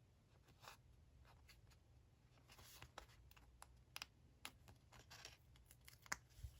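Faint handling of paper and stationery: light rustles, soft taps and sharp little clicks, scattered irregularly, with the sharpest clicks about four and six seconds in.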